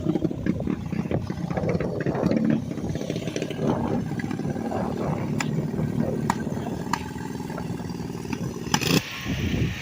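Small racing engines running and revving at the track, their pitch shifting, with a few sharp ticks. The sound changes abruptly near the end.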